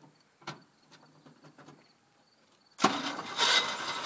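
A Chevy engine being cranked over, starting suddenly and loudly about three seconds in and surging unevenly; it sounds bad enough to draw "That doesn't sound too good." It comes after a few faint clicks.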